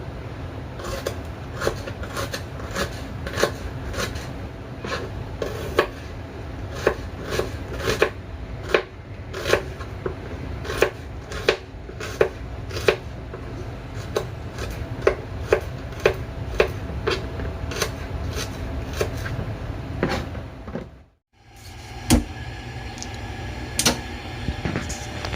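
Kitchen knife cutting garlic and shallots on a cutting board: separate knocks of the blade on the board, about one or two a second at an uneven pace, over a steady low hum, with a brief gap about three-quarters of the way through.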